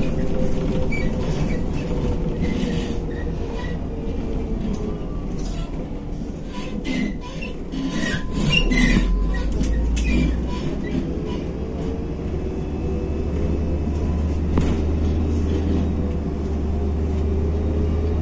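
Inside a MAZ-105 articulated diesel city bus under way: a steady engine and road drone, with rattling and squeaking from the body and fittings, busiest in the middle. A drawn-out drivetrain whine dips in pitch around the middle and climbs again toward the end as the bus slows and pulls away.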